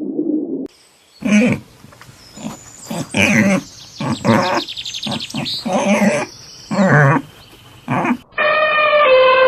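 Animal calls from different clips edited back to back: a low steady sound cuts off just under a second in, then about seven short calls follow, and near the end a long call falls in pitch.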